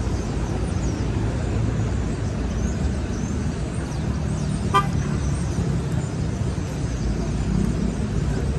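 Steady city street traffic rumble, with one short car horn toot about halfway through.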